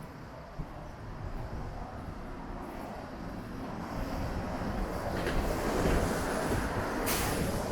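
A vehicle passing on a wet street: a low rumble and tyre hiss that swells to its loudest about six seconds in, with a short sharp hiss near the end.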